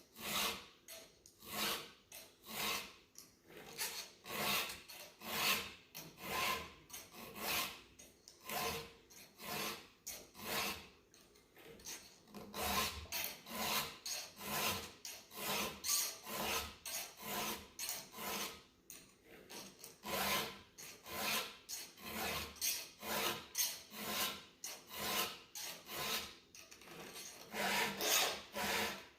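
A file being drawn over the cutters of a chainsaw chain in short, even strokes, about two a second, with brief pauses between teeth. The chain is being sharpened because it was dull and cutting poorly.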